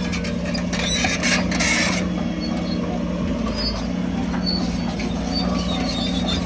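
Diesel engine of heavy earthmoving machinery running steadily at one pitch, with scattered high squeaks and clicks over it.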